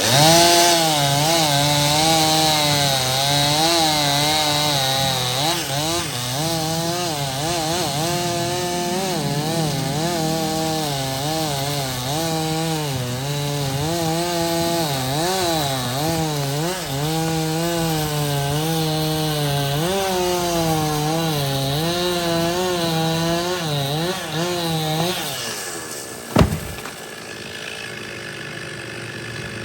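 Stihl two-stroke chainsaw running at high revs while cutting wood, its pitch wavering up and down under load for about 25 seconds before it eases off. A single sharp knock follows about a second later.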